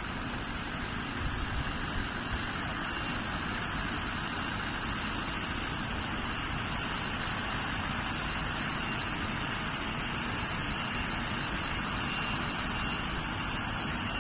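Scania truck running on the road, a steady rumble of engine and road noise.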